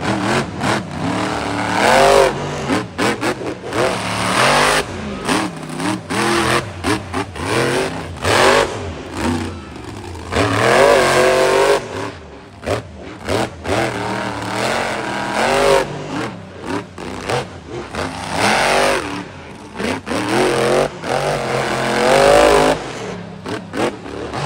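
Monster truck engines revving hard in repeated bursts of throttle, the pitch climbing and dropping again and again.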